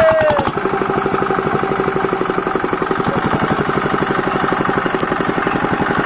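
Hand-crank-started engine running steadily after starting, with an even, rapid firing beat of about ten strokes a second over a steady hum. A brief falling tone sounds right at the start.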